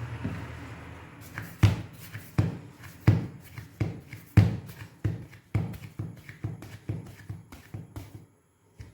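Hands working dough on a floured work surface: a series of soft knocks and pats, roughly one every half second to second.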